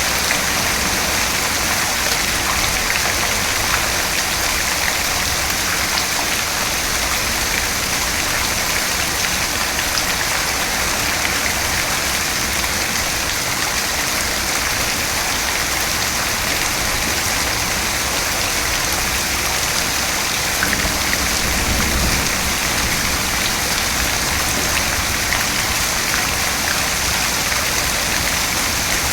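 Steady rain: an even hiss of falling rain with scattered faint drop ticks, unchanging throughout.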